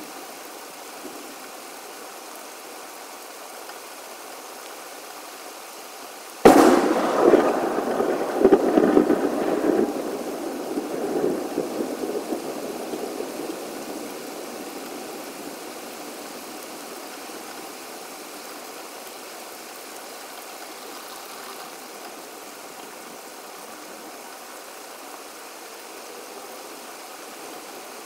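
A thunderclap, sped up four times: a sudden sharp crack about six seconds in, then rumbling that fades away over the next several seconds. A steady hiss runs underneath throughout.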